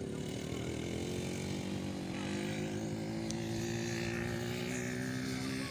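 A small engine running steadily, its pitch creeping up a little after about two seconds.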